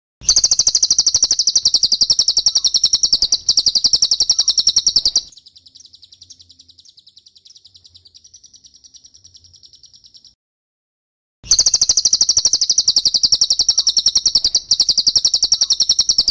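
Cililin bird song: a rapid, steady trill of high chirps, loud for about five seconds, then much softer for five, breaking off for about a second, then loud again. It is a recording used as masteran, tutor song for training songbirds such as magpie-robins and shamas.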